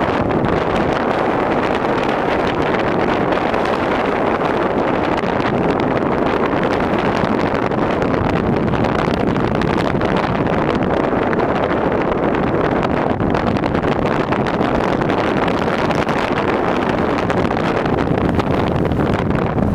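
Sandstorm wind blowing hard across the microphone: a loud, steady, even noise with no distinct tones.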